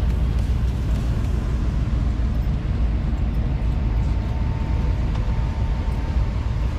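Steady low rumble of vehicle noise, with a faint steady high tone for a couple of seconds in the second half.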